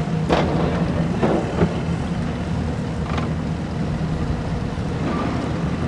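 Boat engine idling at low speed, a steady low hum, with a few brief sharp noises on top, one near the start, two about a second later and one about three seconds in.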